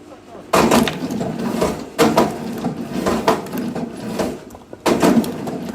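Firewood being split: three sharp blows, about half a second, two seconds and five seconds in, each followed by the cracking and clatter of the wood coming apart.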